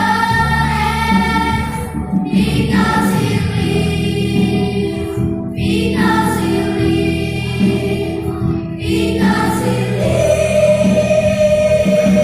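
Elementary school children's choir singing a Christian song in held phrases, with short breaks between phrases every three to four seconds.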